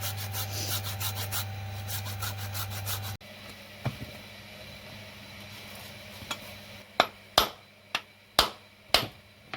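Quick, rhythmic scraping strokes over a steady low hum, which stop abruptly about three seconds in. Near the end come five sharp knocks in quick succession.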